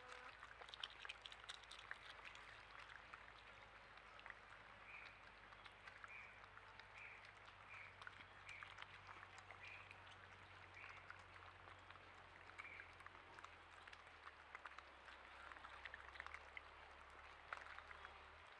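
Faint rain dripping, scattered drops ticking. Through the middle an animal gives a short high call, repeated about once a second.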